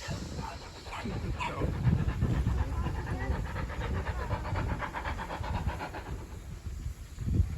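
Steam locomotive working with a low rumble and quick, regular chuffing beats that fade near the end.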